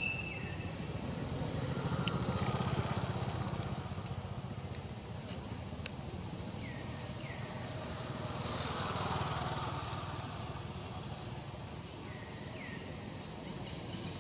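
A small engine running steadily, swelling and easing off twice, with a few short high falling chirps over it.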